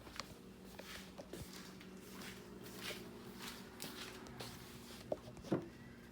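Microwave oven running with a steady low hum while heating food, with soft scuffs throughout and a couple of sharp clicks about five seconds in.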